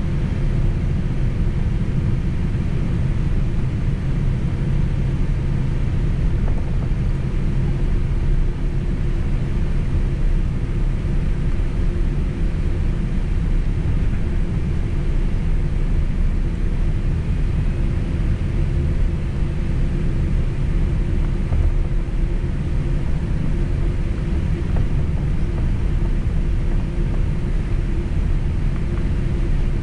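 Steady low rumble of a Boeing 767 airliner's engines and airflow heard from inside the passenger cabin, with a faint steady hum over it and no sudden changes.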